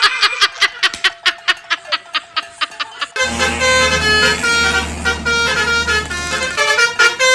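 A rapid, even clicking at about six clicks a second, followed about three seconds in by a multi-tone telolet bus horn playing a stepping melody over a low hum.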